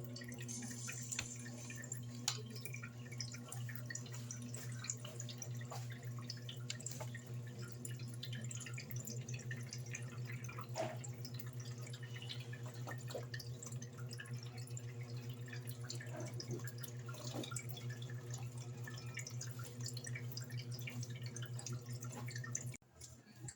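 Electrolux LED14 14 kg washing machine running with a steady electrical hum and water dripping and trickling inside it. The hum cuts off suddenly near the end.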